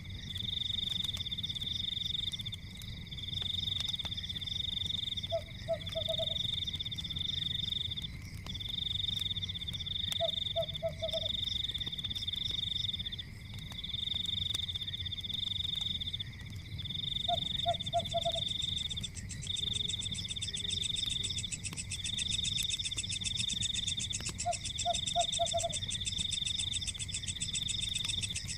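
Night forest ambience: a high, pulsing trill repeats in bursts of about a second and a half over a steady high drone, as in a chorus of frogs or insects. A short, low call of three or four quick notes comes every five to seven seconds, over a low steady rumble.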